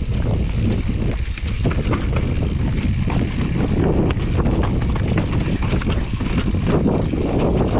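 Mountain bike ridden fast down a downhill trail: wind buffeting the action camera's microphone in a steady low rumble, with a constant run of irregular clicks and knocks from the bike rattling over the rough ground.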